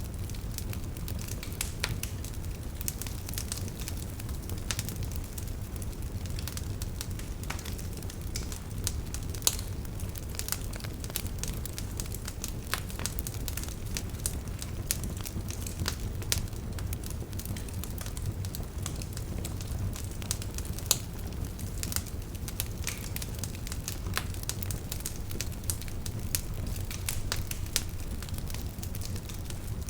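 Campfire burning: frequent sharp crackles and pops over a steady low rumble of flame, with a few louder pops.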